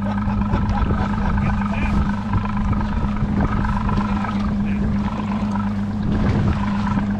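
Boat motor running at a steady pitch, a constant hum, with wind buffeting the microphone.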